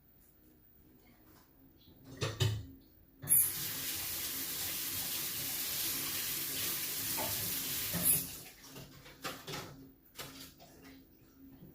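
A steady stream of liquid running for about five seconds, starting and stopping abruptly. A few light knocks of kitchen handling come just before and after it.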